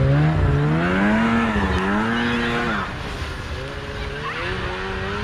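Snowmobile engine towing a tube, its pitch rising and falling as the throttle changes. The engine drops in loudness about three seconds in as the machine pulls away.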